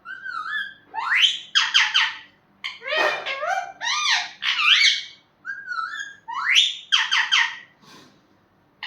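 Pet parrot whistling and calling: a series of sharp up-and-down whistles and squawky calls in quick groups, with short pauses between them.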